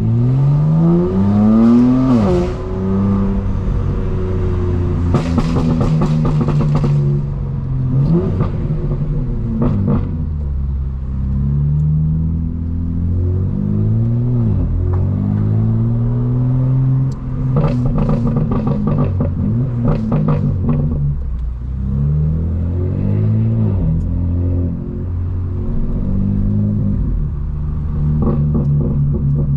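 Straight-piped BMW M4 Competition's twin-turbo inline-six pulling through the revs several times, the pitch climbing on each pull and dropping back in between. Clusters of sharp crackles come from about five to seven seconds in and again around seventeen to twenty-one seconds.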